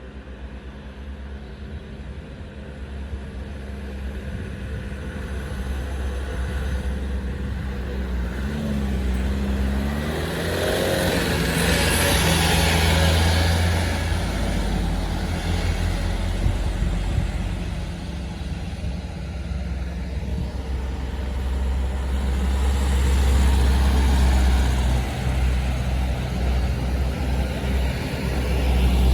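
Truck engine with an open, muffler-less exhaust running with a steady low drone, its level climbing and swelling louder around eleven to thirteen seconds in and again around twenty-three seconds in.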